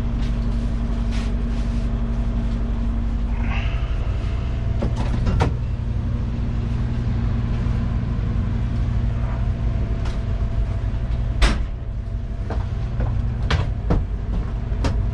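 An engine running steadily with a low hum, with a few sharp knocks and clunks over it, the loudest about eleven seconds in.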